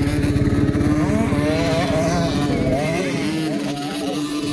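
Motocross dirt bike engines running, with pitch rising and falling as the bikes rev between about one and three and a half seconds in.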